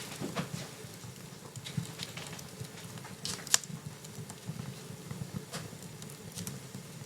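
Wood fire burning in a fireplace: scattered small crackles and pops over a low steady rustle of the flames, with one loud sharp crack about halfway through.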